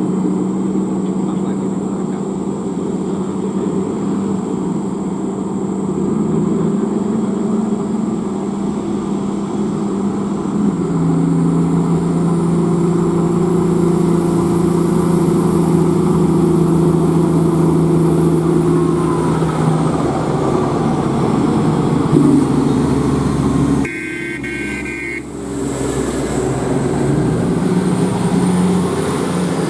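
Large diesel engine of a Komatsu HD785-7 haul truck running, a steady drone whose pitch steps up and down several times, with a brief break about two-thirds of the way through.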